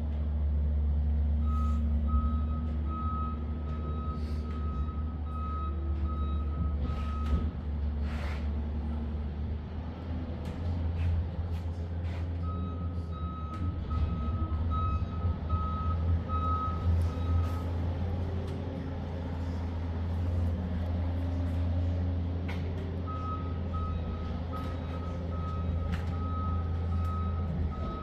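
Steady low engine rumble, with a high electronic beeping of about two beeps a second that comes in three spells of roughly five seconds each.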